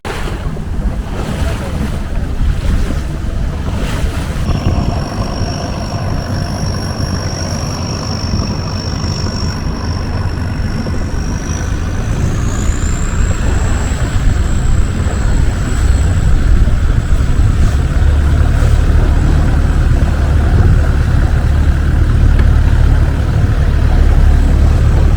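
Longtail boat engine running under way, a loud low rumble mixed with wind on the microphone and rushing water. A high whine rises in pitch about halfway through, and the engine noise grows louder towards the end.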